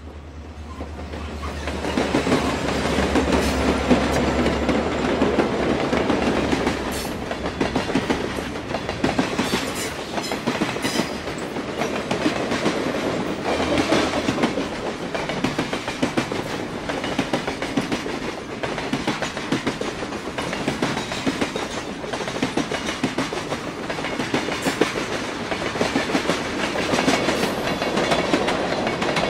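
A diesel-hauled train passing, its wheels clacking steadily over the rail joints, growing louder over the first couple of seconds. A low engine rumble runs underneath and drops out about halfway through.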